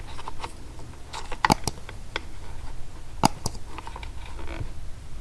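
Small clicks and taps of hands working a fuel line into a plastic chainsaw fuel tank, with two sharper clicks about a second and a half and three seconds in.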